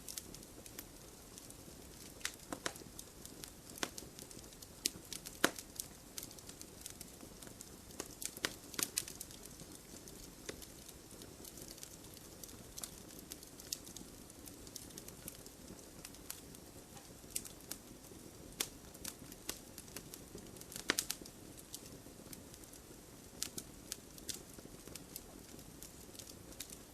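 Wood fire burning: firewood crackling with irregular sharp pops over a low, steady rush of flame. The loudest pops come about five seconds in and again about twenty-one seconds in.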